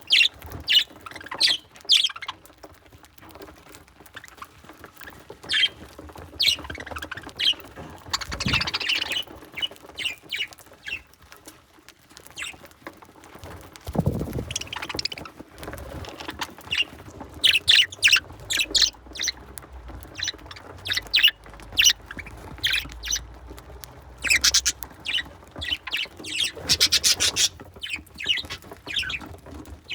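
Budgerigars feeding up close: short chirps, chatter and quick clicks come in clusters, busiest in the second half, with a dull bump about halfway through.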